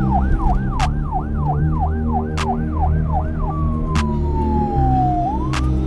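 Police car siren yelping, its pitch rising and falling about three times a second. About halfway through it changes to a slow falling wail that rises again near the end. Under it plays music with a regular tick.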